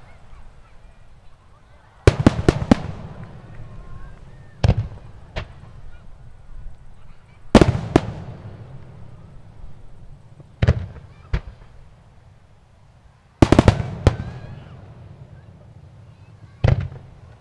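Aerial fireworks shells bursting in a series of sharp booms, each trailing off in a rumbling echo. A quick cluster of four or five bursts comes about two seconds in, then single or paired bursts every two to three seconds, and another rapid cluster around two-thirds of the way through.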